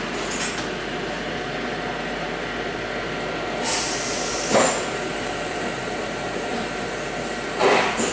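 Golden Pass Panoramic train running, with the steady rumble and hiss of wheels on the track, a few sharp knocks and two brief high squeals from the wheels.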